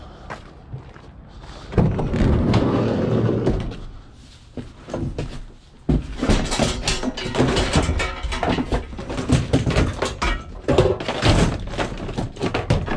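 Scrap metal being handled and loaded: a dense stretch of scraping and thudding about two seconds in, then from about six seconds on a run of rapid knocks and clanks.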